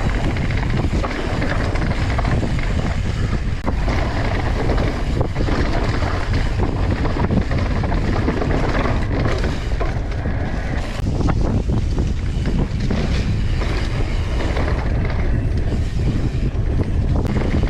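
Wind rushing over a chest-mounted GoPro's microphone on a fast mountain bike ride, with the tyres rolling over the dirt trail and the bike rattling and clicking over bumps.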